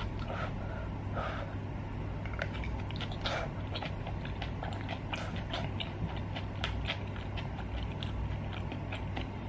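Close-miked chewing of a mouthful of spicy stir-fried rice cakes: irregular wet mouth clicks and smacks, several a second.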